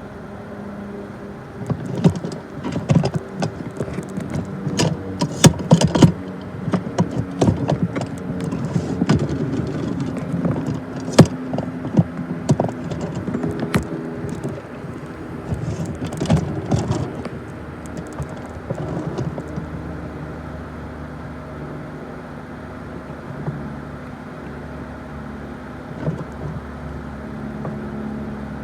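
Diesel-hauled freight train passing: a steady locomotive engine drone under a long run of sharp metallic clanks and bangs from the wheels and cars, which thin out after about two-thirds of the way through into a steadier rumble.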